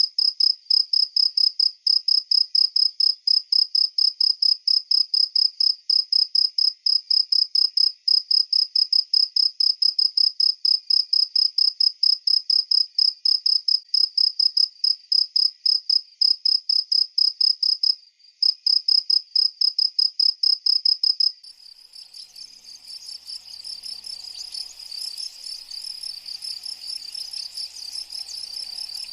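A single cricket chirping loudly in a fast, even rhythm, with a brief pause about two-thirds of the way through. Shortly after the pause it gives way to a quieter, denser, continuous chorus of many insects.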